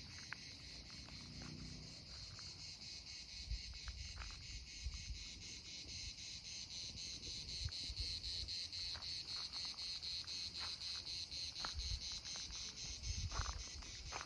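Crickets chirping steadily in a high, rapidly pulsing trill, with occasional low thumps on the microphone.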